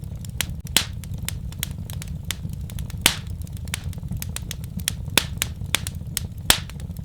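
Fire crackling in a fireplace: frequent small irregular pops, with three louder snaps spread through, over a steady low rumble.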